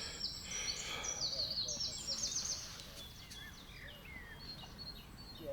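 Small birds singing: quick runs of high repeated notes for the first couple of seconds, then fainter scattered chirps, over a low steady outdoor background noise.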